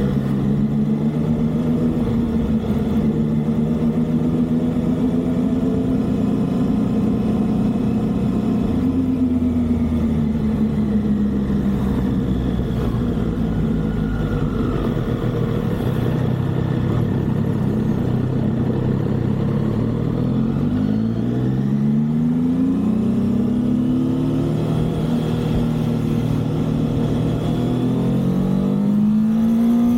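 Triumph motorcycle engine running on the highway over steady wind and road noise, revving up and shifting up through the gears several times in quick succession about two-thirds of the way in, and revving up again near the end.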